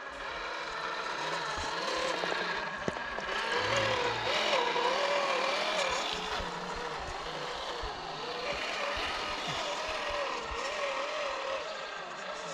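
Electric motor and gear whine of a scale RC crawler truck, wavering up and down in pitch as the throttle is eased on and off.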